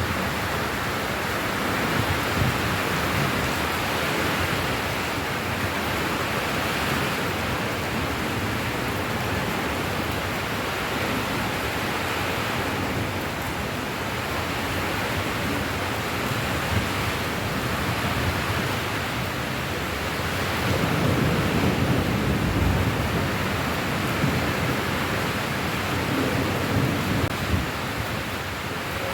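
Steady rain falling, an even hiss, with a low rumble swelling for a couple of seconds about two-thirds of the way through.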